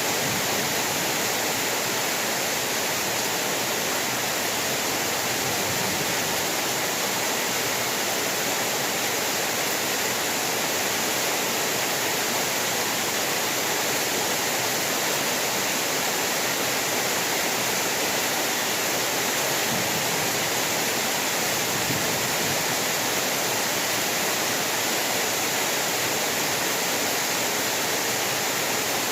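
Heavy rain falling in a steady, even hiss with no thunder.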